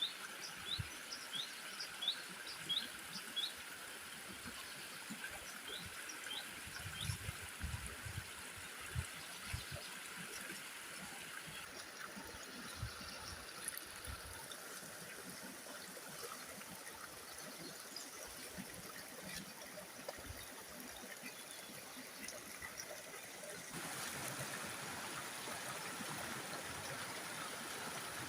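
Stream water running steadily, with a bird giving quick runs of short chirps in the first few seconds and scattered low knocks in the first ten seconds. The background changes abruptly twice, getting a little louder near the end.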